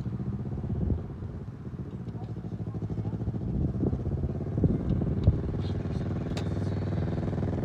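Motorcycle engine running at low speed, its sound building gradually over a few seconds, with a couple of sharp clicks about five seconds in.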